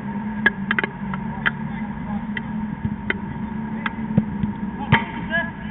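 Five-a-side football in play: scattered sharp knocks of the ball being kicked and of players' feet, over a steady hum, with a few brief calls near the end.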